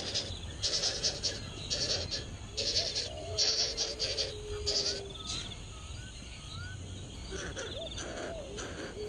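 Baby birds calling: repeated short raspy bursts mixed with lower wavering calls and a few small rising chirps. They are thickest in the first half, die down, and pick up again near the end.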